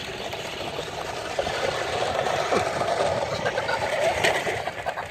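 Electric motors of several radio-controlled toy trucks whirring as they drive, getting a little louder about a second and a half in.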